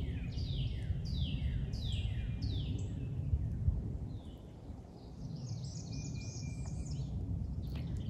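A bird calling a series of short downward-slurred chirps, about two a second, then a jumble of higher chirps later on, over a steady low rumble of outdoor background noise. One soft low thump about halfway through.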